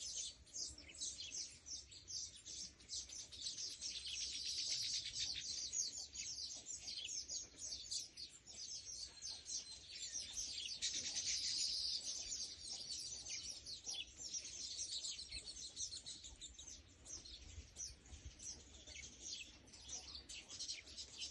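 Many small birds chirping and twittering together in a dense chorus of rapid, high-pitched chirps that never lets up.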